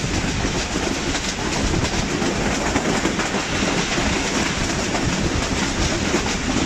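Passenger train running along the track, heard from an open window of the moving train: a steady rumble with the wheels clattering over the rails.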